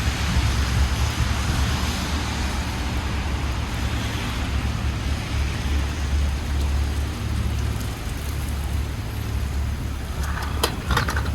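Steady rain falling on a city street, with the low rumble of passing traffic underneath. A short run of sharp clicks comes near the end.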